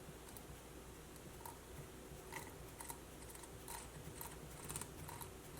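Faint, irregular light clicks and ticks as the HPI Baja 5B transmission's gears are slowly turned by hand and worked into mesh.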